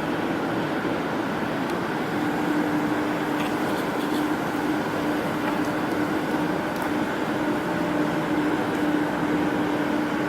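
A 250 kW Shangchai diesel generator set running steadily, a constant engine drone with an even hum.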